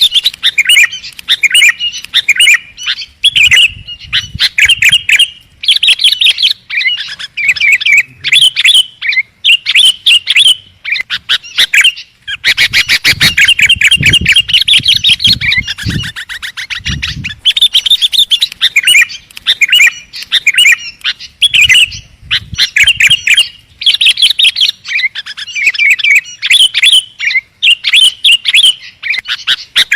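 Sooty-headed bulbul (kutilang) singing over and over: loud, rapid runs of chirping phrases every second or two, with a few low thumps near the middle.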